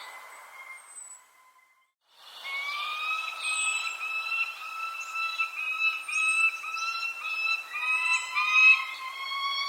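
Birds calling: long, wavering, whistle-like calls with short high chirps over them. The sound drops out briefly about two seconds in, then resumes.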